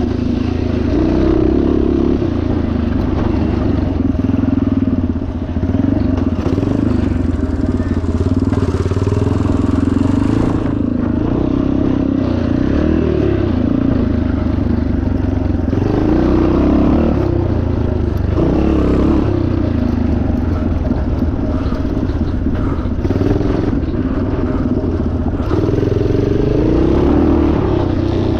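A 1977 Yamaha TT500's single-cylinder four-stroke engine running hard. Its pitch keeps rising and falling with the throttle.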